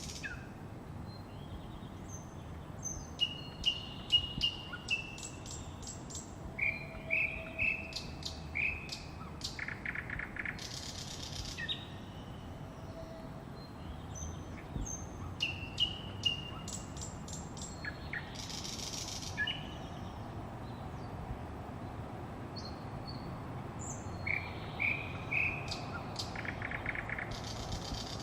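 Songbirds singing in scattered phrases of chirps, short fast trills and rising whistled notes, over a steady low background hum.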